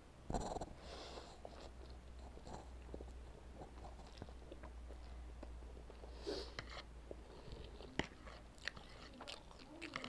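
A person eating instant noodles close to the microphone: chewing, with a brief louder burst about half a second in and scattered sharp mouth clicks in the second half.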